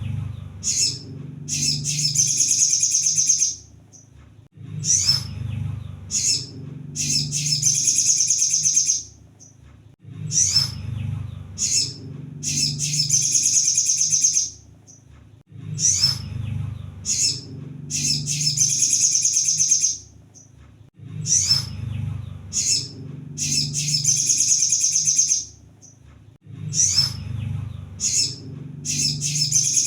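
Crimson sunbird (kolibri sogon) song played as a looped lure: a short high call, then a high-pitched rapid trilling phrase of about a second and a half, repeated the same way every five and a half seconds or so.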